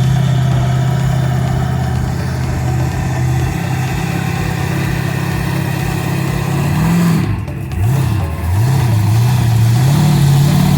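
Monster truck engine running at a steady idle, then revving up and down several times in quick swings from about seven seconds in.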